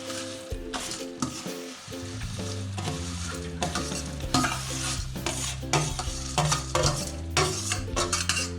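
A metal spoon scraping and knocking as crisp fried boondi is tipped and pushed into sugar syrup in a pan. There are irregular clattering scrapes throughout.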